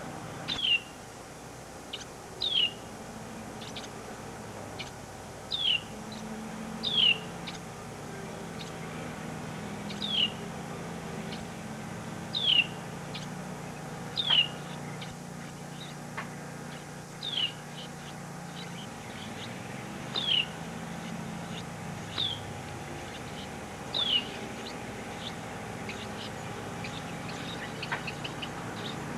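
A bird repeating short, high calls that slur downward in pitch, one every two seconds or so, over a steady low background hum.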